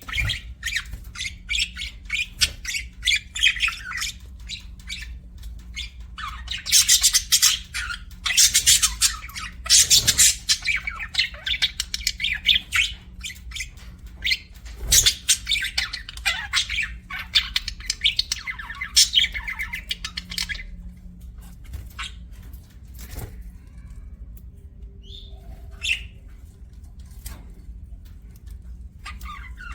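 Budgerigars chirping in rapid, dense chatter that thins out about two-thirds of the way through to a few scattered calls, with a faint steady hum underneath.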